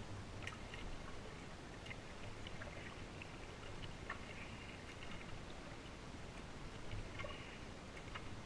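Kayak paddling on a small stream: faint water noise with scattered light drips and ticks from the paddle.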